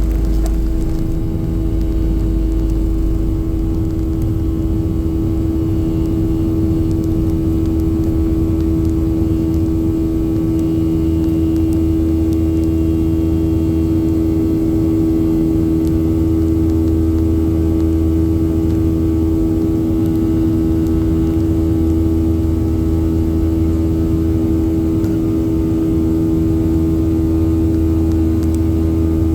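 Boeing 737-800 jet engines (CFM56-7) running, heard inside the passenger cabin: a loud, steady drone with a strong constant hum and a low rumble that swells and eases slightly.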